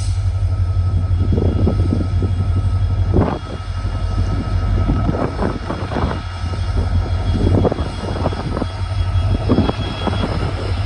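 WDP4B diesel locomotive's two-stroke engine running under load as it pulls an express train away, a steady low drone. Irregular clanks and knocks from the coaches' wheels and couplings come through it.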